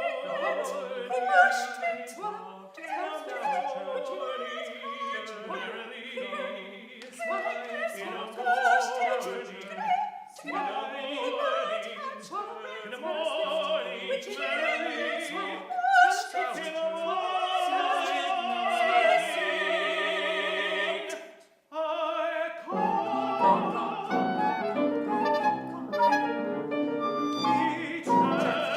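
Classically trained voices of a mixed vocal quartet singing a contemporary chamber piece in overlapping lines, with instrumental accompaniment. About 21 seconds in the music breaks off briefly, then resumes in a fuller, denser texture.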